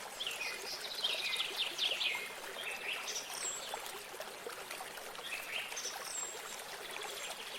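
Small stream of running water, with songbirds singing over it in repeated falling whistled phrases, busiest in the first couple of seconds and again near the end.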